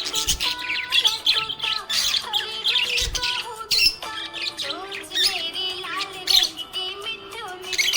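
Budgerigar chirping and warbling rapidly and continuously, a busy stream of short high chirps and squawks, with steady held musical tones underneath.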